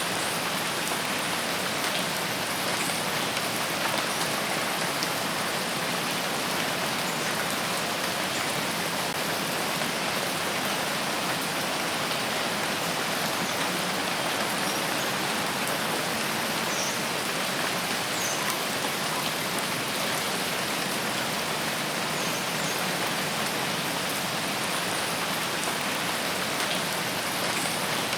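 Steady, heavy rain falling on forest foliage, an even hiss with no breaks, with a few faint high chirps near the middle and end.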